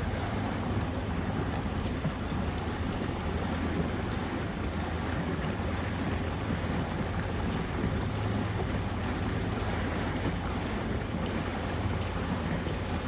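Boat engine running steadily at a constant low hum, with water rushing past the hull and wind buffeting the microphone.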